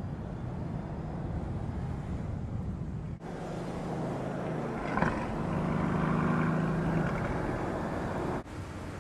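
Mercedes-AMG GT's twin-turbo V8 running as the car drives at speed. The sound changes abruptly about three seconds in and again near the end. There is a sharp crack about five seconds in, followed by a steady engine note.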